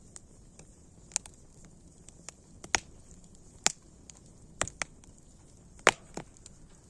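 Wood fire crackling: sharp pops and snaps at irregular intervals over a faint steady hiss, the loudest pop about six seconds in.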